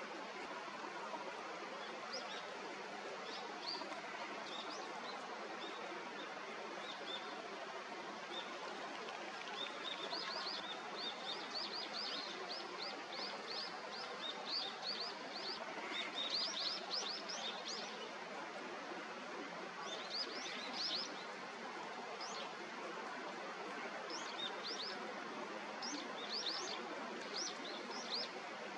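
Birds chirping in quick runs of short, high notes, thickest through the middle and again near the end, over a steady background rush.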